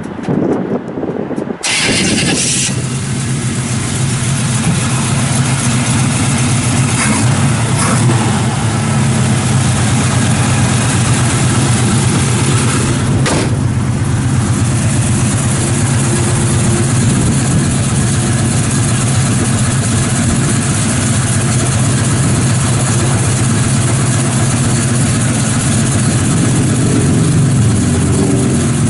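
Rebuilt 327 V8 of a 1966 Chevrolet El Camino, fitted with a large cam and an Edelbrock four-barrel carburettor. It cranks briefly and catches a little under two seconds in, then settles into a steady idle.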